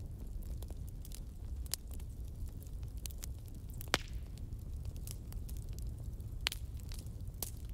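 Fire crackling: irregular sharp pops and snaps over a steady low rumble, with a louder pop about halfway through and another near the end.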